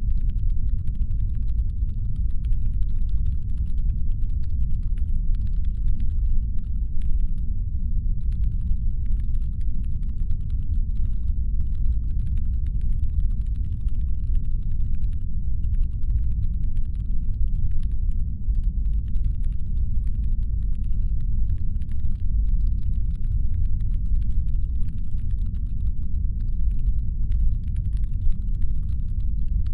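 Steady deep brown-noise rumble made to suggest a spaceship's engine hum, with a faint irregular crackle of small clicks above it.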